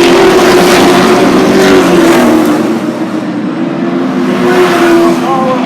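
Super Truck race trucks running at speed around a short oval, their engines sounding together with several trucks passing one after another.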